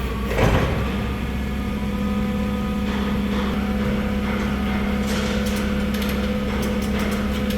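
A truck's diesel engine idling steadily, with a single metallic clank about half a second in and light ticking in the second half.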